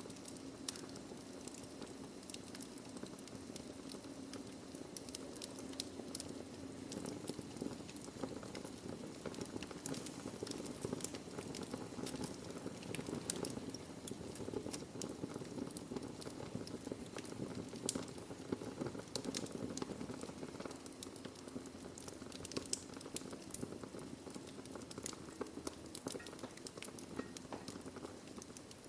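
Wood fire burning in a fireplace: a steady low rushing hiss with frequent sharp crackles and pops of burning logs scattered throughout.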